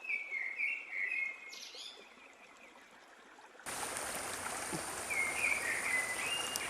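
A bird chirping in short wavering calls, then a brief gap. Just after halfway a steady hiss of running water starts abruptly, and more chirps come over it.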